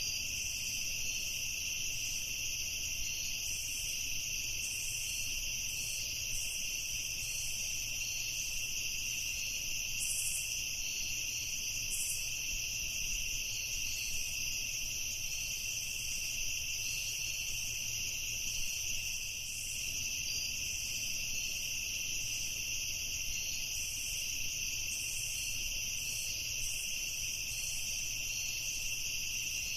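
Chorus of night insects, crickets among them, trilling steadily at two overlapping pitches, with short irregular higher chirps coming and going.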